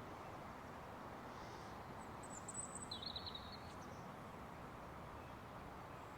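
Steady rushing of river water, with a short burst of high bird chirps about two to three seconds in.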